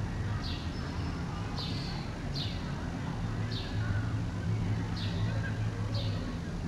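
A bird chirping over and over, a short falling chirp about once a second, over a steady low hum.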